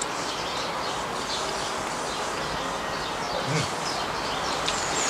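Small garden birds chirping intermittently in the background over a steady outdoor hiss.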